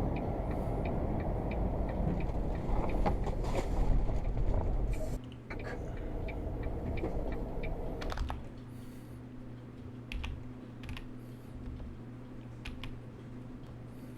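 Low vehicle rumble with road noise that cuts off about five seconds in, followed by a quieter stretch of scattered sharp clicks like typing on a computer keyboard.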